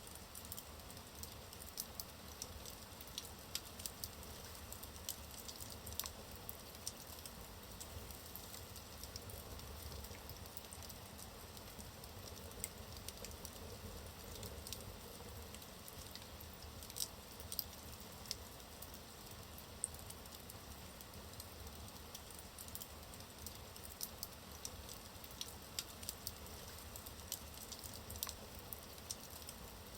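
Wood fire burning in a fireplace: a steady soft hiss with frequent irregular crackles and pops from the burning logs, a few of them louder.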